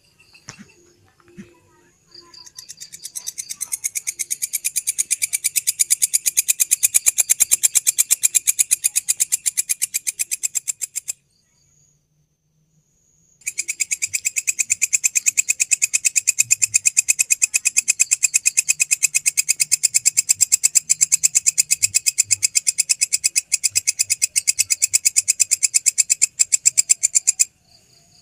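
A grasshopper (belalang) singing close by in a loud, rapid, high-pitched pulsed trill. It plays in two long bouts: the first swells up about two seconds in and stops near the middle, and after a short silence the second starts and runs until just before the end.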